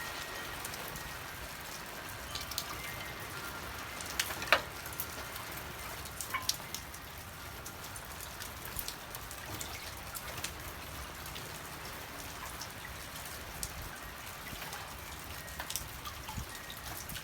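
Steady rain falling, with scattered single drops ticking sharply against nearby surfaces; one tick about four and a half seconds in is louder than the rest.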